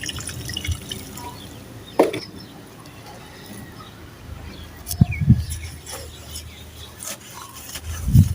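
Dry sand-cement crumbling in water: scattered small crackles and drips, with two louder sharp knocks about two and five seconds in.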